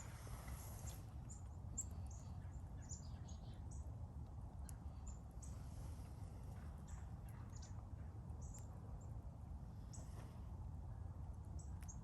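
Small birds chirping in short, high notes, scattered throughout, over a steady low rumble.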